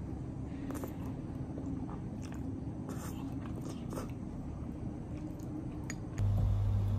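A person chewing a mouthful of noodles close to the microphone, with scattered small clicks over a steady low background hum. About six seconds in, the sound switches abruptly to a louder steady low hum.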